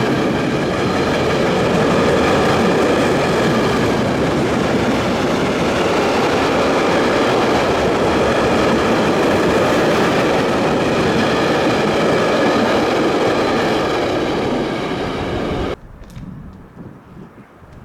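Freight train passing at speed: a loud, steady rolling rumble and rattle of wheels on rails, with a layer of even ringing tones. It cuts off abruptly near the end, leaving faint wind noise.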